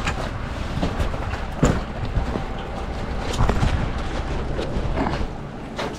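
Metre-gauge diesel railcar running on the line: a steady low rumble broken by irregular knocks and clatter from the wheels on the track, the loudest about a second and a half in and again about three and a half seconds in.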